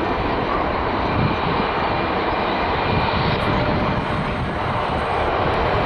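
Airliner jet engines running: a steady, loud rushing noise with a faint thin whine held on top.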